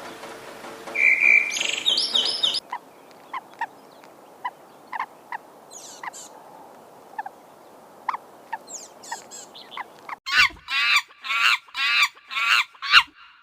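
Animal calls, mostly bird chirps. There is a burst of chirping at first. Then come scattered single short chirps over a quiet background, and a run of about seven loud repeated calls near the end.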